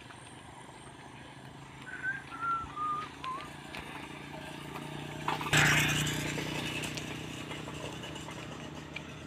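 A bird calls four short whistled notes, each a little lower than the last, about two seconds in. About halfway through, a sudden loud rushing noise starts and slowly fades.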